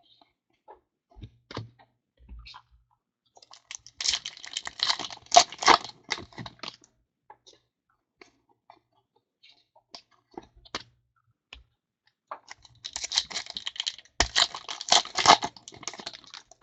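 Trading card packs being opened and handled: two stretches of crinkling, ripping and clicking, about four seconds in and again from about thirteen seconds in, with scattered small clicks between.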